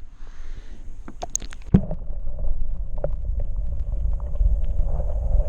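Water and handling noise at a kayak as a caught bass is put back in the creek: a steady low rumble with sharp clicks and knocks, the loudest a thump about a second and three quarters in.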